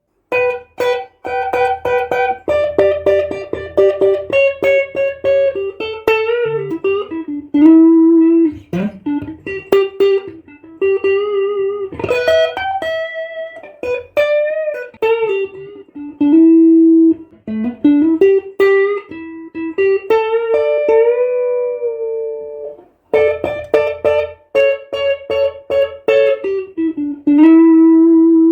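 Stratocaster-style electric guitar playing a single-note melody with string bends and slides between notes, in phrases separated by brief pauses.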